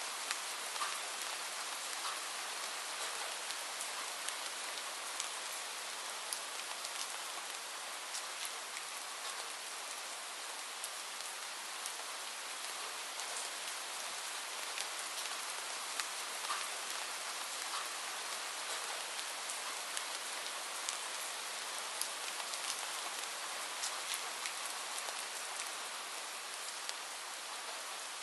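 Steady rain falling: a constant hiss with many scattered sharp drop impacts, steady throughout.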